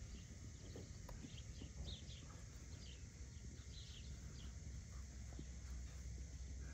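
Quiet outdoor ambience: a small bird chirping over and over in short high notes, over a steady low rumble.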